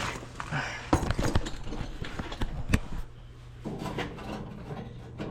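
A run of sharp knocks and clicks, like hands handling hard objects, from about a second in to about three seconds, over a steady low hum.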